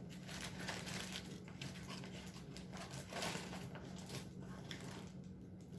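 Rustling and crinkling of trading-card pack wrappers and cards being handled, in a run of short irregular bursts over a steady low hum.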